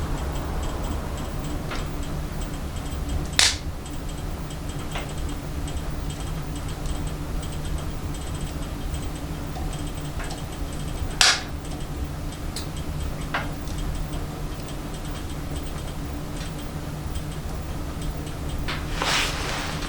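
Wood fire burning in a small wood stove: a steady low rumble of the fire with scattered sharp pops and crackles, the two loudest about three seconds and eleven seconds in. A brief louder rush of noise comes near the end.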